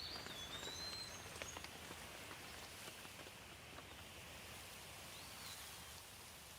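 Light rain falling: a faint, steady hiss with scattered drops. A bird gives short whistled calls at the start and again about five seconds in.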